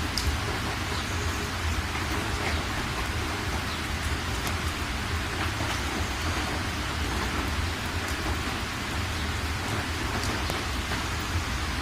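Heavy rain falling steadily, a constant hiss with scattered sharp ticks of single drops striking close by.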